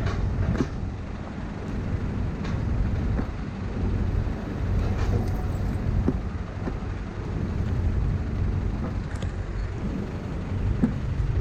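Steady low rumble of road traffic and riding noise, heard from a moving bicycle, with a few scattered light clicks and knocks.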